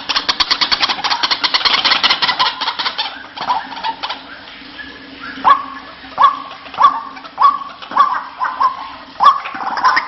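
White-breasted waterhen calling. A fast chattering series of about ten notes a second runs for the first three seconds, then after a pause comes a string of about seven sharp, upward-sweeping notes, a little over half a second apart.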